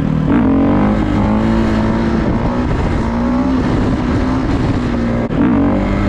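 Dirt bike engine revving hard and held at high revs, with a brief drop about five seconds in before it climbs again.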